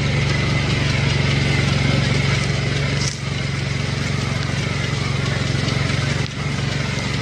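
Tractor engine running steadily at a constant speed, with two brief dips in level, about three and about six seconds in.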